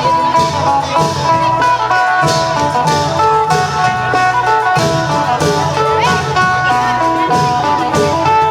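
Isan phin (plucked lute) playing a running melody over a klong yao long-drum band, with drum and cymbal strokes about twice a second.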